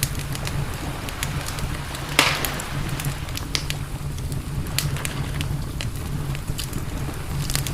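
Wood campfire crackling, with irregular sharp pops and a louder crack about two seconds in, over a steady low rumble.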